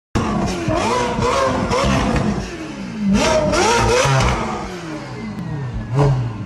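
Ferrari twin-turbo V8 with straight-piped exhaust revving in the stationary car: two loud runs of quick throttle blips with the pitch rising and falling, then a single short blip near the end.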